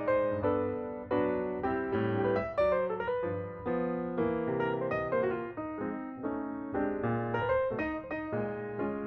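Background piano music: a melody over chords, with notes struck one after another.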